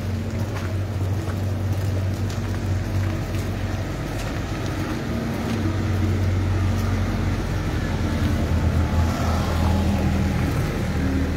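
Hearse engine running as the vehicle creeps along at walking pace, a steady low hum, with wind buffeting the microphone.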